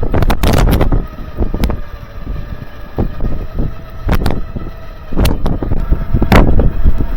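Tow truck engine running with a heavy low rumble and a faint steady whine, while wind hits the microphone. Short sharp knocks or gusts come roughly once a second as a stuck car is pulled out of the snow.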